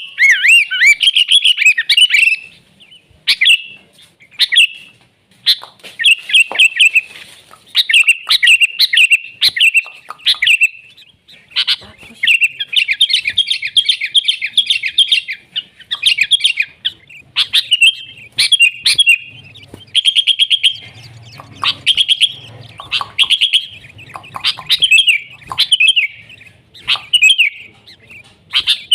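Sooty-headed bulbul singing loudly in quick, bubbly, chirping phrases with only brief pauses between them.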